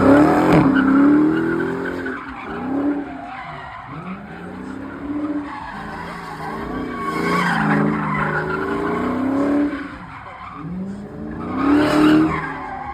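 Dodge Charger engine revving hard and easing off repeatedly while its tyres squeal and skid as the car slides, with the loudest surges near the start, about halfway through and near the end.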